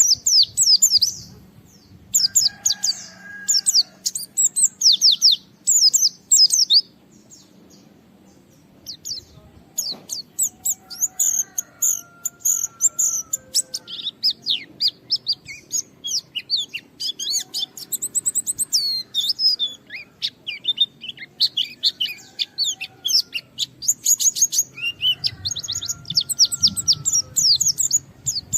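Pleci (white-eye) in full song: bursts of fast, high-pitched chattering chirps a few seconds long, with a gap about seven to nine seconds in and fainter lower whistled notes in between. This is a rival-challenging song of the kind keepers play to get other white-eyes singing.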